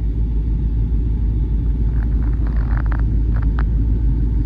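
Strong winter wind buffeting the phone's microphone: a loud, steady low rumble, with a few faint clicks and scrapes about halfway through.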